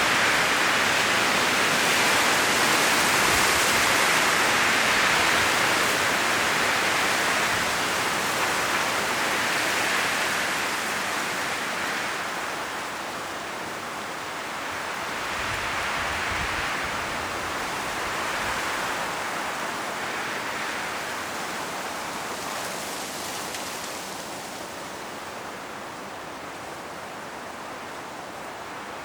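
Strong wind blowing through autumn forest trees, rustling the leaves in gusts that swell and ease; loudest in the first third, then gradually dying down.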